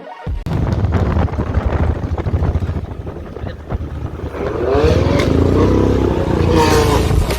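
BMW motorcycle engine running loud through its exhaust, revving up and back down between about four and a half and seven seconds in.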